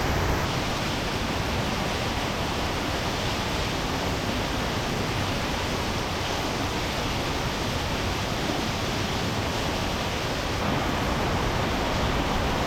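Heavy rain falling steadily, an even hiss with no let-up, growing a little louder near the end.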